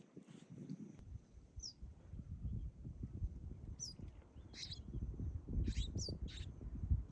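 Birds giving short, high chirps every second or so, over a low rumbling noise.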